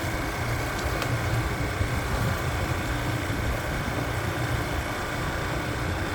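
Motorcycle engine running steadily at low speed with a low rumble, ridden slowly over a rough dirt track.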